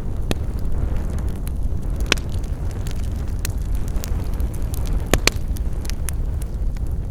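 Campfire burning: wood crackling with sharp pops scattered through, the loudest about two seconds in and a close pair just after five seconds, over a steady low rumble.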